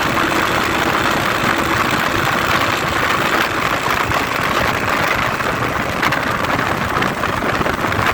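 Engine of an IZh Jupiter 5 motorcycle fitted with a Chinese 300 cc engine, running steadily and loudly with a dense, noisy sound.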